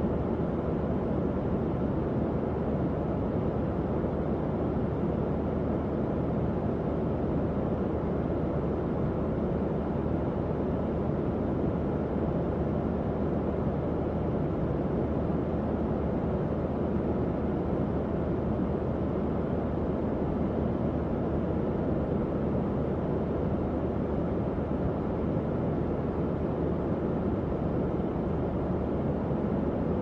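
Tower fan running steadily: an even airflow rush weighted toward the low end, with a low motor hum underneath.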